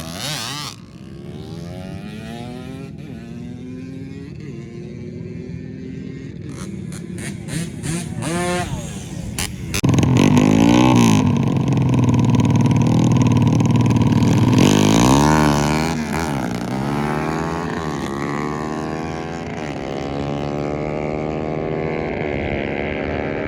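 Drag-racing motorcycles accelerating hard, engine pitch climbing and dropping back repeatedly with each gear change. The sound swells to its loudest for about five seconds in the middle, then eases off as the bikes draw away.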